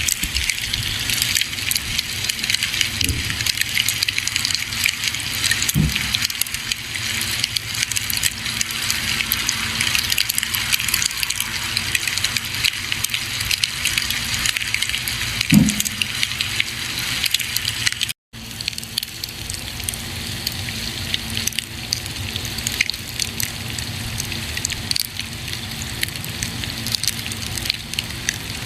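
Campfire burning: a dense, steady crackle of small snaps over a hiss, with a few louder low pops, the loudest about fifteen seconds in. The sound cuts out for an instant a little past halfway, then carries on slightly quieter.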